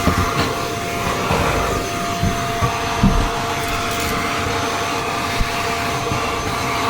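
Shark stick vacuum cleaner running on its low setting with a steady whine, as it is worked over the stair carpet. A few low knocks come through, the strongest about three seconds in.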